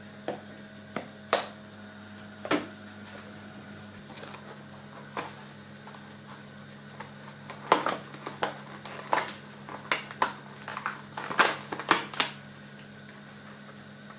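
Kitchen items knocking and clinking in irregular sharp clicks, a few early and then a quick cluster in the second half, over a steady low hum.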